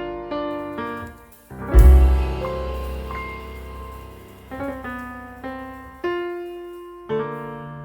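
Slow, gentle piano music: notes struck about twice a second, a short pause, then a deep bass note and chord about two seconds in that slowly die away, with single notes following.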